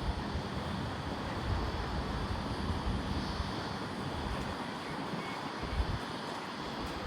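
Wind buffeting the microphone over a steady, distant jet airliner rumble, with gusty swells in the low end.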